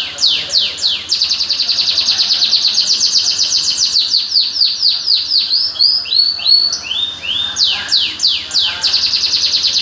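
A songbird singing a fast, continuous song of high, quick downward-sweeping notes run together into rapid trills, with a few slower slurred notes between the trills.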